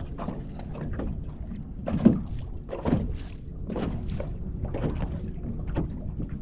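Wind buffeting the microphone on a small fishing boat, a constant low rumble, with irregular slaps of choppy water against the hull; the sharpest comes about two seconds in.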